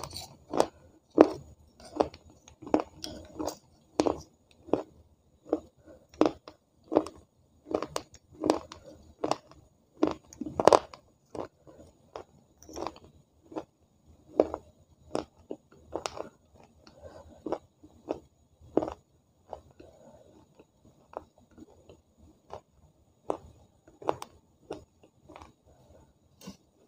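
A person chewing crunchy food close to the microphone, with a steady run of crunches about three every two seconds that grow sparser and fainter in the last third.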